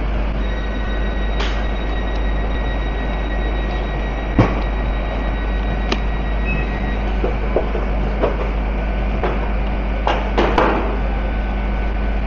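Steady rumble and hiss of a train, with faint high whining tones that stop about seven seconds in. A few sharp knocks and clicks sound through it, two close together near the end.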